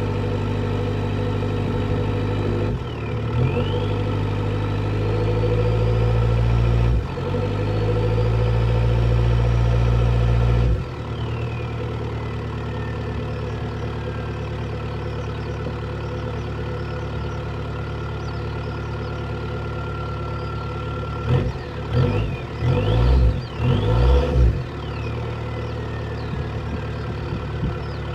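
Vauxhall Corsa SXi+ petrol engine running on a cold start: a steady idle that drops abruptly to a quieter, lower note about eleven seconds in, then a few short revs of the throttle a little past twenty seconds before it settles back to idle.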